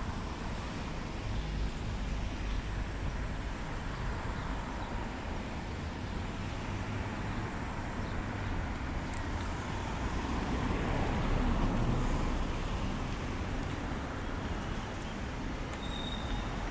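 Street traffic noise: a steady rumble of road vehicles that swells around ten to twelve seconds in, then settles.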